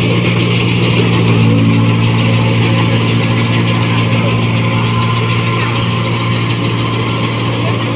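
New Holland 1545 combine harvester's diesel engine running steadily at constant speed through a loud aftermarket exhaust.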